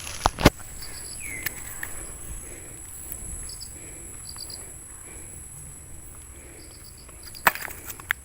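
Sharp knocks or strikes, two in quick succession near the start and a few more near the end, with faint bird chirps in the background.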